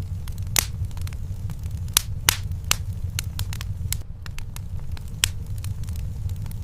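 Wood fire crackling in a fireplace: irregular sharp pops and snaps, several a second, over a steady low rumble. The loudest pops come about two seconds in.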